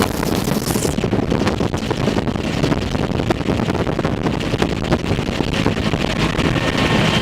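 Bell UH-1 Huey helicopter in flight, heard from inside its doorless cabin. The turbine and rotor make a loud, steady noise, with wind buffeting the microphone.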